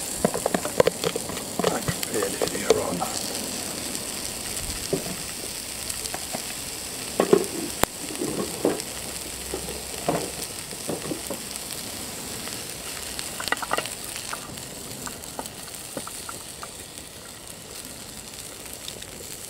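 Peppers, mushrooms and spring onion sizzling in a non-stick frying pan over a rocket stove: a steady frying hiss that eases slightly. Scattered clicks and clatters come through it as metal tongs move the vegetables in the pan.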